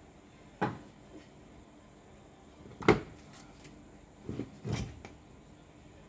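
A few separate knocks and clunks of hard parts or tools being handled and set down on a workbench. There is one knock about half a second in, a sharper, louder one about three seconds in, and a quick cluster of two or three near the end.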